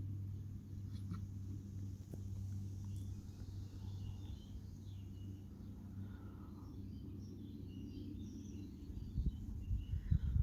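Faint, scattered bird chirps over a low, steady hum. Rough low rumbles join near the end.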